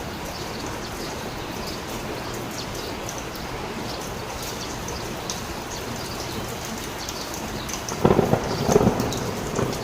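Heavy rain falling steadily, with a brief low rumble about eight seconds in.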